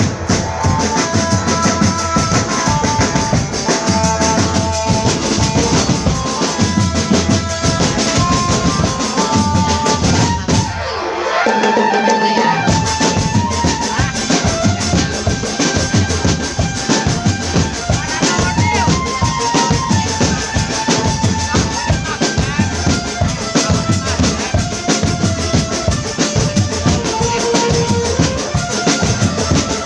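Marching drum band playing: snare and bass drums keep a steady beat under a melody of held notes. The sound briefly drops out about eleven seconds in, then the band carries on.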